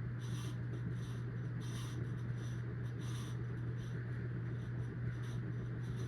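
Casablanca Delta II ceiling fan motor running with a steady hum, and a faint high-pitched scraping tick repeating about every second and a half. This is bearing noise, which the owner says is starting to develop.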